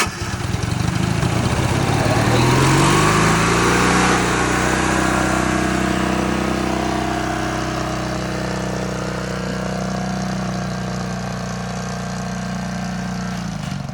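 Small lawnmower engine firing up and revving over the first few seconds, then running steadily before cutting off near the end.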